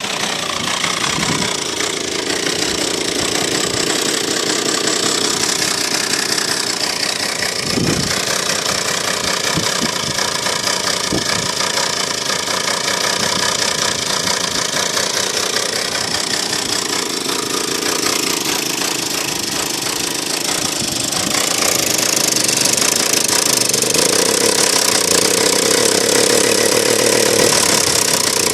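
Soviet Druzhba-4 two-stroke chainsaw engine running, fitted with a high-compression cylinder head from a petrol generator. It runs steadily, then gets louder about three quarters of the way through.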